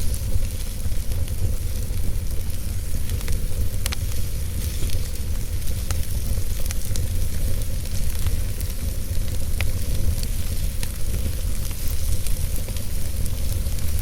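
Fire burning in a fireplace: a steady low rumble and hiss, with scattered sharp crackles and pops.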